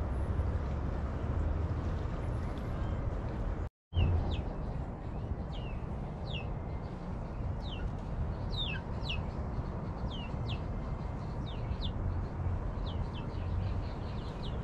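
Bird chirping: short, high chirps that fall in pitch, repeated irregularly, several a second at times, over a steady outdoor background rumble. The chirps begin after a brief dropout about four seconds in; before that there is only the rumble.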